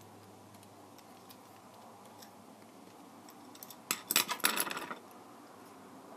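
A quick run of sharp clicks and light clatter about four seconds in, over a few faint ticks: small hard parts being handled.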